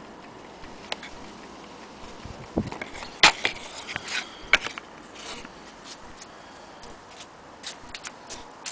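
Irregular sharp clicks and taps with one dull knock a little over two seconds in, typical of a wooden-cased mantle clock being handled. They are scattered, not a steady tick.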